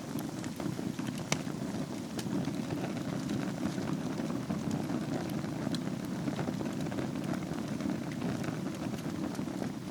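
Wood fire burning in a fireplace over embers: a steady low rush of flame with scattered crackles and pops, one sharper pop about a second in.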